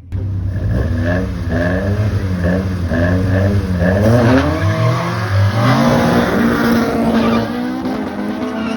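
Drag-racing car engine revving hard, its pitch climbing and dropping about twice a second, then rising in longer sweeps as it accelerates, settling to a steadier note near the end.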